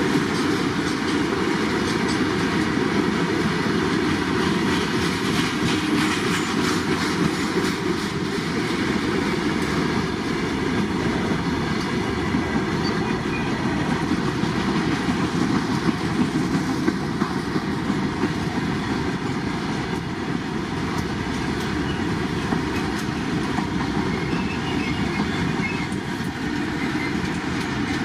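Indian Railways train running on the track: a steady, loud rolling rumble with wheels clicking over the rail joints.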